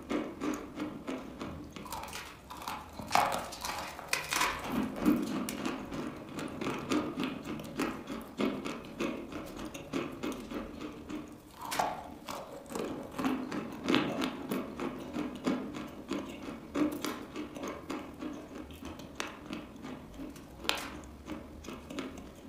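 Close-miked chewing of dry chalk: a dense run of small crunches and crackles, with a few louder crunches scattered through.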